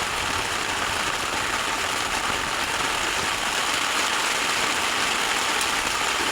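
Very heavy tropical downpour with strong wind beating on a camp shelter: a dense, steady hiss of rain.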